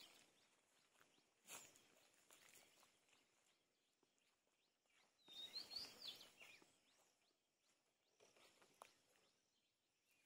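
Near silence with faint outdoor ambience, broken by a bird's brief quick chirps about five to six seconds in.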